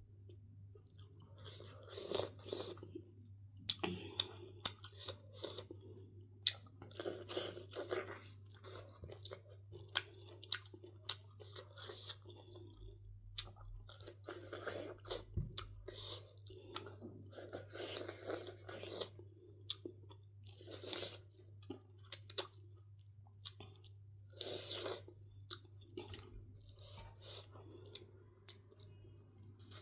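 A person eating: chewing with repeated wet mouth smacks and crunching bites, in irregular bursts, over a steady low hum.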